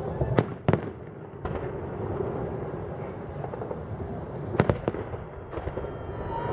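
Fireworks salute shells bursting in sharp bangs: two less than a second in, two more close together past the four-and-a-half-second mark, and fainter ones between, over a steady low rumble.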